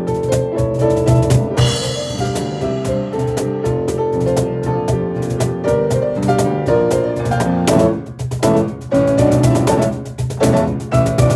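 Piano and percussion playing a fast instrumental together: rapid piano runs over a driving beat, with brief breaks about eight and ten seconds in.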